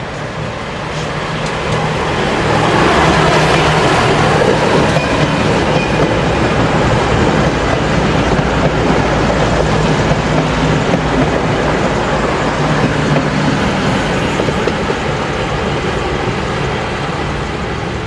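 Diesel train running close by: a loud engine drone under the noise of wheels on the rails. It swells over the first few seconds and then holds steady.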